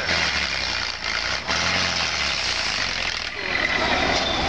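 Competition off-road truck engine running and revving on a trial section, its note rising and falling several times over a steady hiss.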